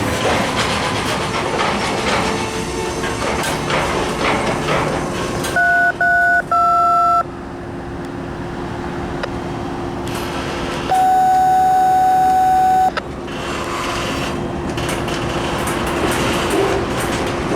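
Norfolk Southern intermodal freight train getting under way slowly, the locomotives and cars giving a steady rumble and hum. Electronic beeps cut in twice: three short beeps about six seconds in, and one longer beep of about two seconds near the middle.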